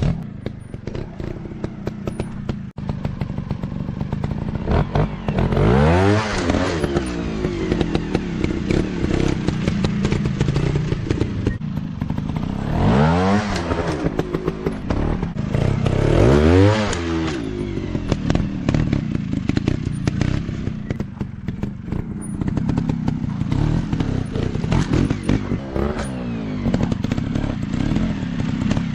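Off-road dirt bike engines running, revved hard several times with the pitch sweeping up and falling back, amid rattling knocks.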